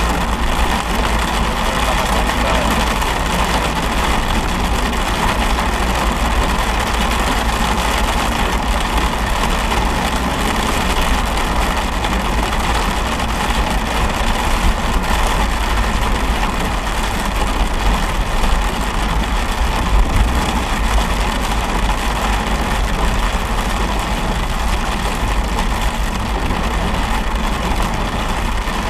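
Steady car noise in heavy rain: low engine and road rumble with an even hiss of rain hitting the car and the wet road.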